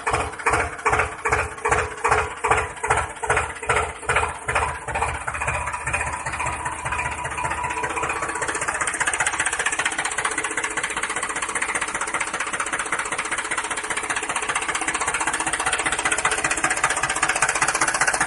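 Tractor engine chugging at about three beats a second, then speeding up about six seconds in into a steady, even run.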